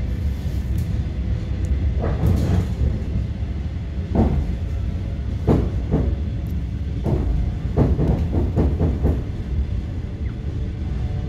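Interior of a moving ED9M electric multiple unit: the steady low rumble of the running train, with wheels clacking over the track. The clacks come singly every second or two, then in a quick run of several near the end.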